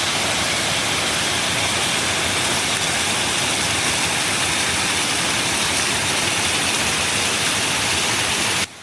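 Steady rushing roar of a large waterfall, an even hiss of falling water that cuts off suddenly near the end.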